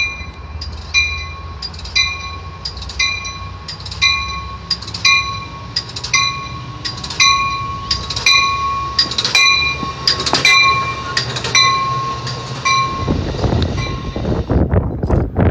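Amtrak Pacific Surfliner passenger train rumbling into a station while a warning bell rings steadily at about two strokes a second. A little before the end this gives way to loud wind buffeting the microphone.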